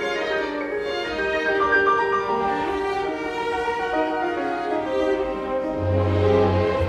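Chamber string orchestra playing a sustained passage of classical music. A low bass note comes in near the end.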